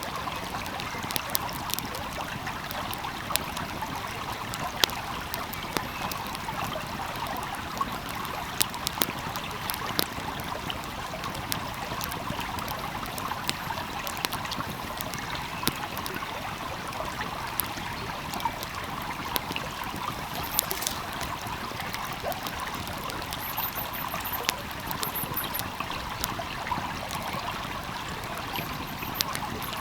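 Small stream flowing steadily with a constant babbling rush, while a wood fire crackles with scattered sharp pops.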